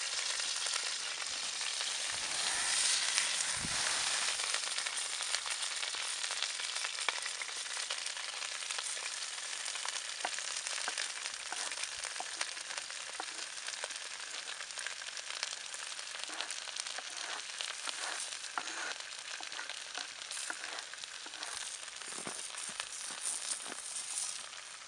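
Ground venison frying in olive oil in a cast-iron Dutch oven, a steady sizzle with small crackles. The sizzle swells a couple of seconds in as chopped green pepper and onion are scraped into the hot pot, then slowly eases.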